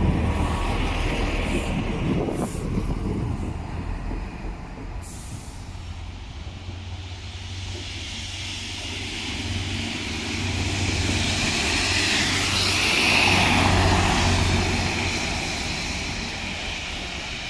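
A diesel passenger train's low engine rumble eases as it moves off. Then a locomotive-hauled train approaches and passes, its engine rumble and a rushing hiss loudest about two-thirds of the way through.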